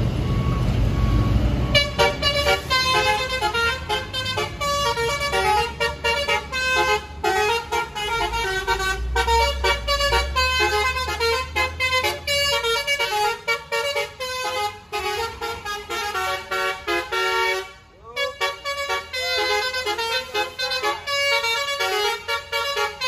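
Bus's multi-tone 'telolet' horn playing a rapid tune of stepped notes for about twenty seconds, with a brief break near the end. A low engine rumble sounds under the first two seconds.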